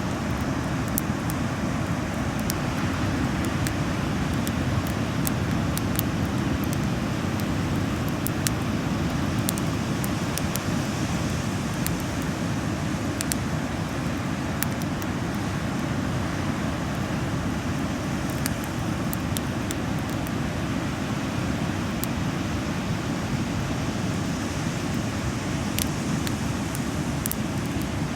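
Bonfire crackling, with sharp pops scattered irregularly over a steady low rumble.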